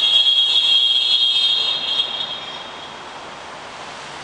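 A vehicle horn sounding one long, steady blast that holds for about two and a half seconds and then fades away, leaving a steady background hiss of street noise.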